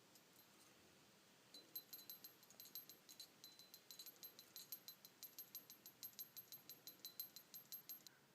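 A budgie's small metal toy bell jingling faintly as the bird knocks it, struck over and over at about six times a second. The jingling starts about one and a half seconds in and stops just before the end.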